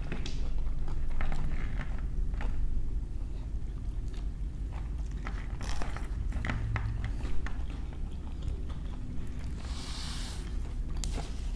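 Close-up eating sounds: chewing and biting with small crisp crunches and wet clicks, from people eating shawarma wraps, fries and raw green chili pepper. A louder crisp crunch comes about ten seconds in.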